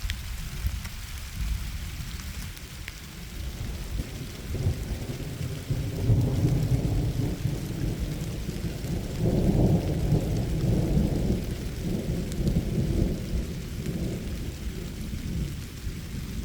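Thunder rolling and rumbling, swelling from about four seconds in and peaking near the middle, over light rain.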